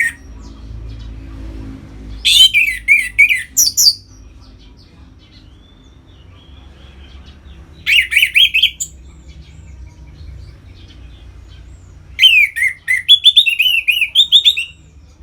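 Orange-headed thrush singing in three loud phrases of rapid, varied high notes, each a second or two long, with pauses of a few seconds between them.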